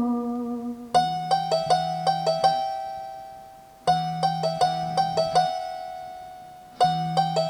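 Instrumental passage of a Malayalam film song: an electronic keyboard plays a short run of quick notes three times, about every three seconds, each run over a held low note and ringing away. At the start, a held note that has slid down fades out before the first run.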